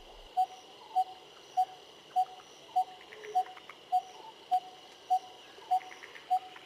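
A bird's call: one short note at a single pitch, repeated evenly about every 0.6 s, over a steady high insect-like drone, with a few faint higher chirps.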